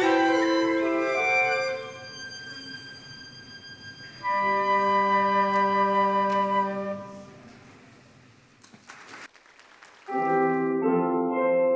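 Woodwind ensemble with violin playing the closing bars of a carol, ending on a held chord that fades out. After a short quiet gap with a few faint clicks, a piano introduction begins about ten seconds in.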